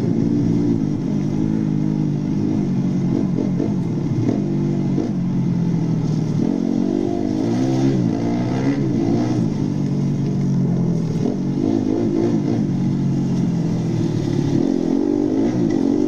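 Vehicle engine running hard and revving, its pitch rising and falling repeatedly as the throttle opens and closes.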